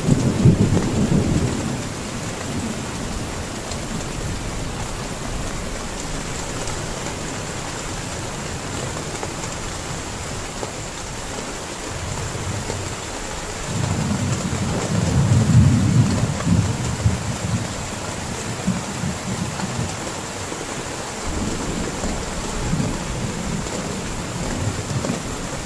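Steady heavy rain with rolling thunder: one rumble right at the start, a longer and louder one about fourteen seconds in, and weaker rumbles near the end.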